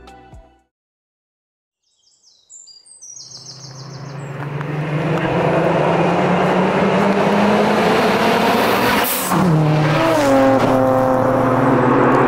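Engines of a Nissan Silvia S15 and a Honda NSX, with tyre noise, growing steadily louder as the two sports cars approach at speed. About nine seconds in the engine note briefly drops off, then climbs again in pitch.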